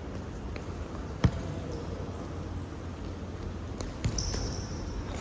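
Futsal ball being kicked and bouncing on an indoor court, with scattered sharp strikes, the loudest about a second in. Short high squeaks come near the end.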